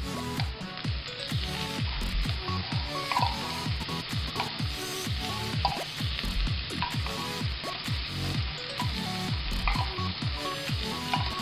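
Minced garlic and onion sizzling in hot oil in a frying pan, stirred with a wooden spatula as a block of corned beef goes in. Background music with a steady low beat plays over the sizzle.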